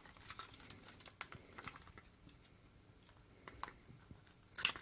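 Faint, scattered light clicks and taps of a small plastic HO scale model railcar being handled, with a sharper, louder clatter near the end.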